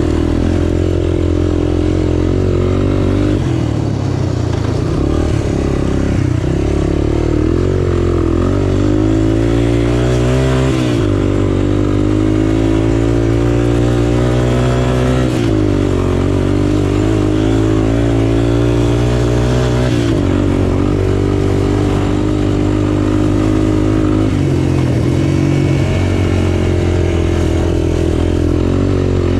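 Small off-road engine running under way, its pitch rising and falling several times as the throttle is opened and closed, with steady stretches between.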